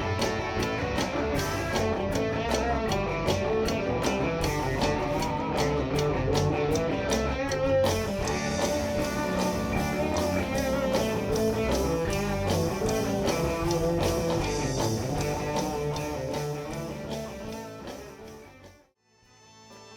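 Live band playing an instrumental rock passage led by guitar over a steady drum beat. The music dies away near the end, and after a short gap the next number starts quietly.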